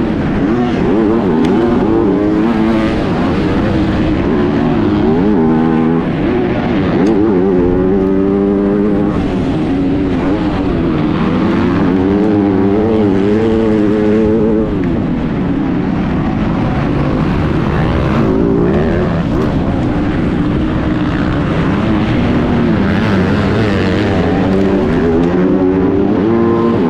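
MX2-class motocross bike engine heard up close on board, revving up and falling back again and again as the rider accelerates, shifts and backs off around the track.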